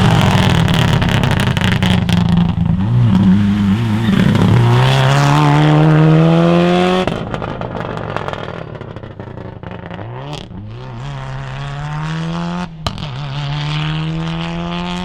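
Rally car engine accelerating hard, its pitch climbing through the gears with short dips at the shifts. About seven seconds in, it drops suddenly to a quieter engine that revs up again, with one sharp click near the end.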